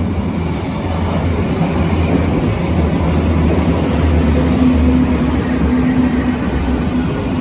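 Berlin U-Bahn large-profile train running: a steady, loud rumble with a low hum. A steadier droning tone comes in about halfway through.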